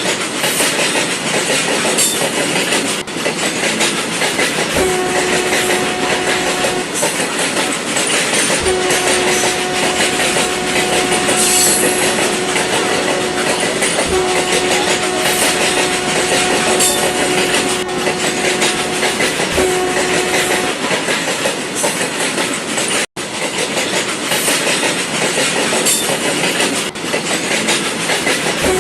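Toy model train running with a steady, noisy whir, its horn sounding in several steady one-note blasts, two of them about five seconds long, each starting with a soft thump.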